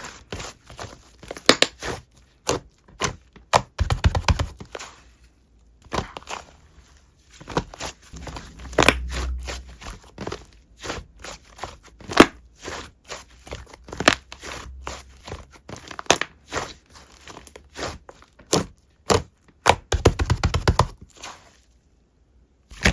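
Slime being squished and pressed by hand: an irregular run of sharp, wet clicks and pops, with denser crackling stretches around four, nine and twenty seconds in.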